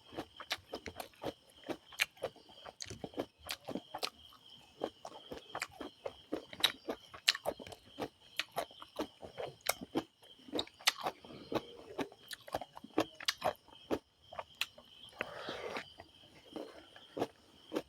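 Close-up eating sounds: chewing a meal of rice and curry, with rapid, irregular wet mouth clicks and smacks. There is a short, fuller crunching or noisy burst about fifteen seconds in.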